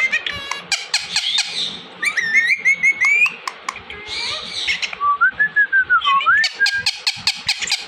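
Indian ringneck parrot vocalizing: sliding whistles and short squawks broken up by quick runs of sharp clicks.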